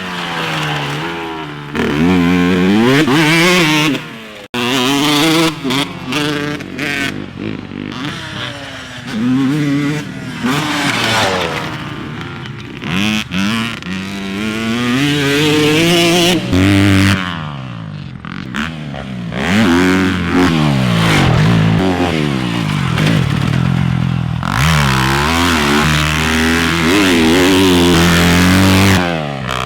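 Dirt bike engines revving hard and dropping back again and again, pitch climbing through the gears and falling off, with several abrupt jumps from one pass to the next.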